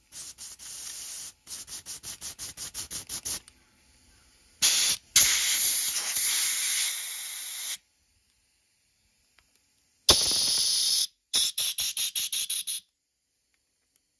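Pressurised spray hissing in bursts: a long blast of a couple of seconds and a shorter one, plus two runs of quick pulses, about five a second.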